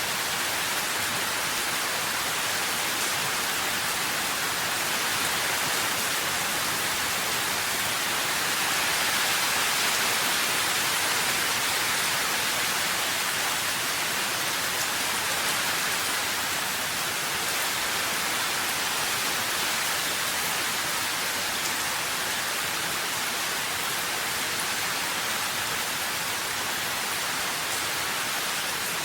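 Steady rainfall, an even hiss of drops that swells slightly about a third of the way through.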